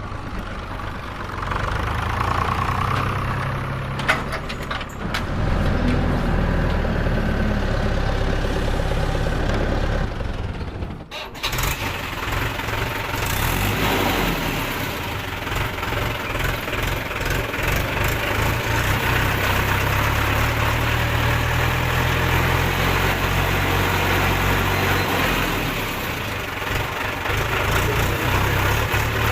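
Tractor engine running steadily with a low, even chug, cutting out briefly about eleven seconds in before running on.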